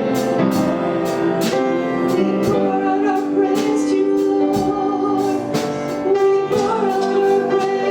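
A live worship band plays a slow contemporary worship song, with singing over held guitar and keyboard chords and a steady drum beat about twice a second.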